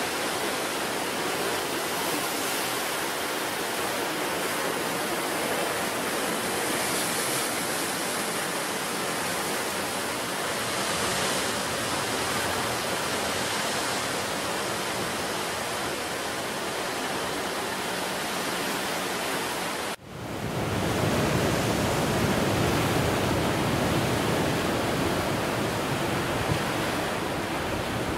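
Sea surf washing steadily on a wild, open coastline. About twenty seconds in, the sound breaks off for an instant and returns louder and deeper.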